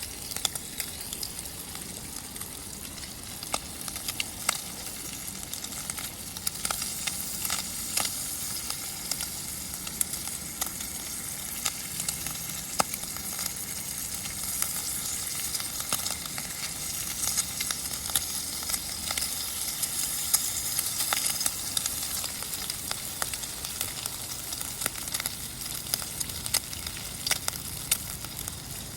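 Bacon sizzling in a pan over a campfire, a steady hiss with many sharp pops and crackles scattered through it.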